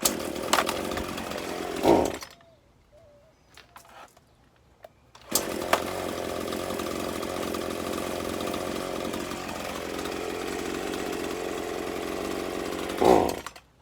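Gas chainsaw running for about two seconds and cutting out, then starting again about five seconds in and running steadily before a short rev and dying again near the end. The saw keeps stalling, which the owner puts down to running out of gas.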